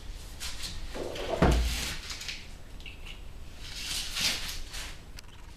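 Body-shop spotter welding a washer onto a dented car door panel: a short pulse with a low hum about a second and a half in, amid clatter of handling the tool, and another scrape or knock of handling around four seconds in.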